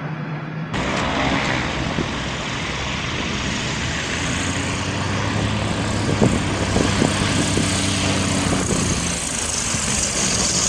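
An engine running steadily under a rushing noise, with a few sharp clicks near the middle. The sound changes abruptly about a second in.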